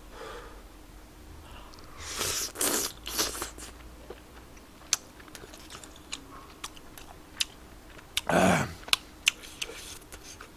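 Close-miked eating of spicy tteokbokki: chewing with short sharp wet clicks, and two louder noisy rushes of air, about two seconds in and again about eight seconds in.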